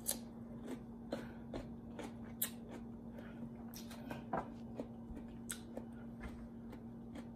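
Close-miked chewing of raw cucumber pieces: irregular soft crunches and mouth clicks, over a faint steady hum.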